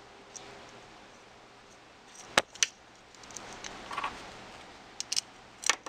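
A few separate light clicks and taps of small hardware and tools being handled while a nut is fitted onto a screw on an RC truck's steering linkage.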